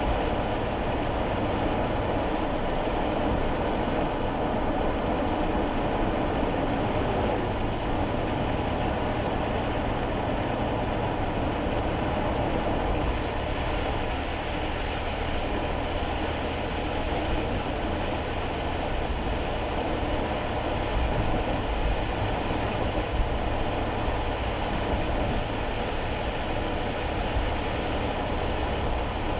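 Steady road and tyre noise with a low drone, heard inside the cabin of a kei car driving on wet roads. A single short knock comes about two-thirds of the way through.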